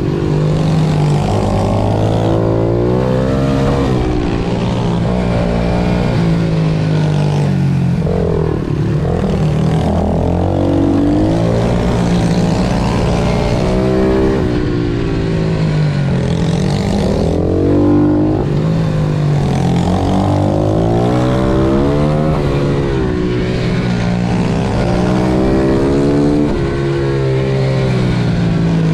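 Pit bike engine revving hard and easing off over and over, its pitch climbing and dropping every couple of seconds as it accelerates and slows through the corners of a kart-style track.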